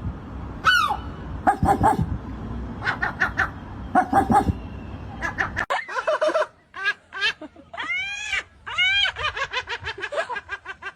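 Seagulls squawking: clusters of short harsh calls, then from about six seconds in a run of longer calls that rise and fall in pitch.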